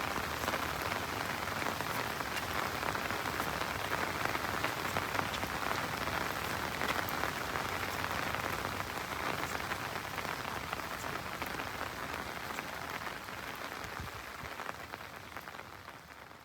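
Steady rain falling on surfaces, an even hiss with many small drop ticks, fading out over the last two seconds or so.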